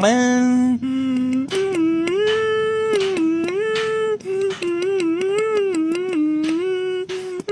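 A voice humming a slow wordless melody in long held notes that step up and down in pitch, with brief breaks between phrases.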